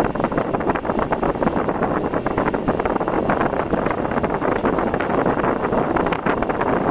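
Steady rushing noise of a car driving in typhoon wind and rain, with wind buffeting the microphone.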